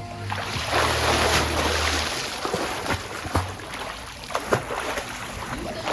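Water sloshing and splashing in a swimming pool, with a few sharper splashes in the second half.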